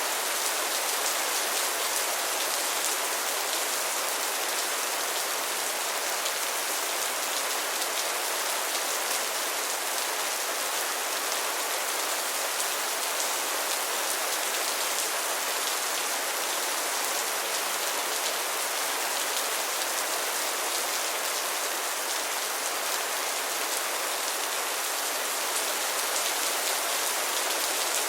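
Heavy rain falling steadily, a dense even hiss of drops with fine pattering, unchanging throughout.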